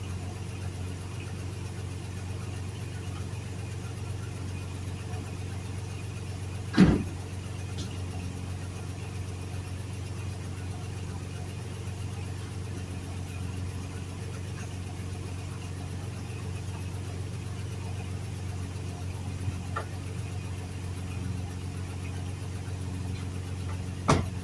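Truck engine running steadily, heard from inside the cab as an even hum. There is a sharp knock about seven seconds in and another near the end.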